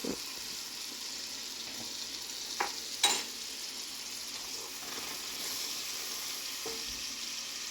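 Garlic sizzling in melted butter in a frying pan, a steady hiss, with two sharp knocks about two and a half and three seconds in.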